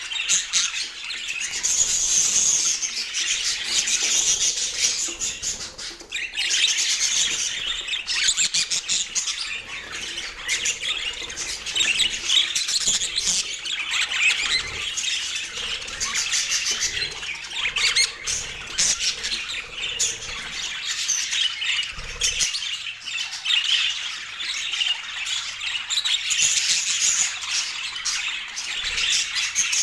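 A flock of budgerigars chattering continuously, with squawks and chirps mixed in.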